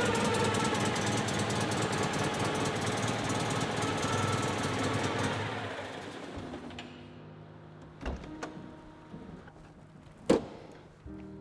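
Citroen 2CV's air-cooled flat-twin engine running, settling after a rev, then switched off about halfway through so that the sound dies away. A few sharp knocks follow, the loudest near the end.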